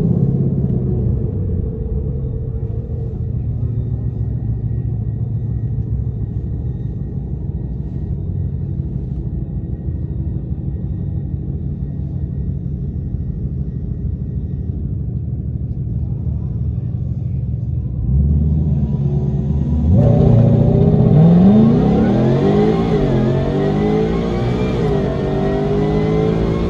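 Supercharged 5.2-litre V8 of a 2020 Shelby GT500 running at a steady low rumble, louder from about 18 seconds in. From about 20 seconds in it revs up and down repeatedly, its pitch rising and falling.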